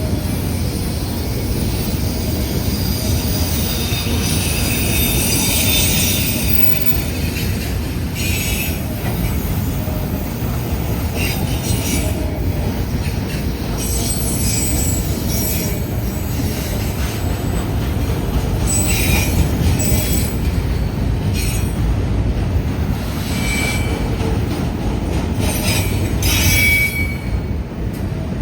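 Freight train rolling past: a steady rumble of wheels on the rails, with high wheel squeals that come and go, several short squeals in the second half.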